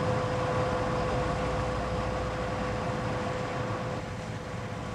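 Steady drone of a ship's engines and machinery with a constant hum, easing slightly near the end.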